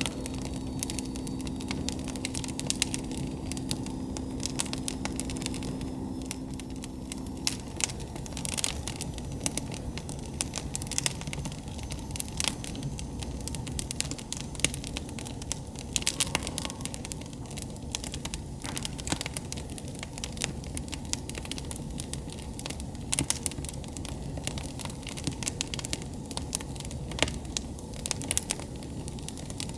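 Wood campfire crackling, with sharp pops and snaps scattered irregularly over a steady low rush of burning. A low steady hum sits under it for the first seven seconds or so, then stops.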